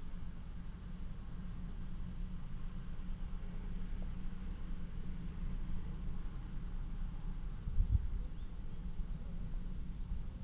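Low, steady rumble of a BNSF freight train led by GE Dash 9-44CW diesel locomotives, with a brief low thump about eight seconds in.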